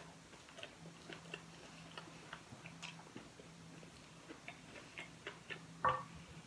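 A person chewing food, with faint, irregular small mouth clicks and smacks, and one slightly louder short mouth sound near the end.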